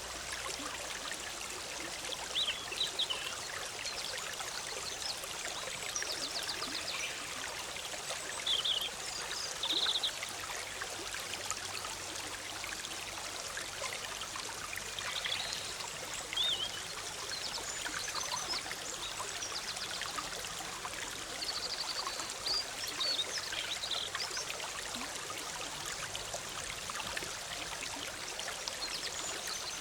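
Shallow forest stream babbling steadily, with short high bird chirps and trills scattered through it.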